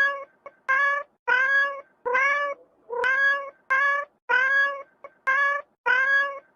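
A cat meowing over and over in a fast, even series of short, high calls, about two a second, each rising slightly in pitch.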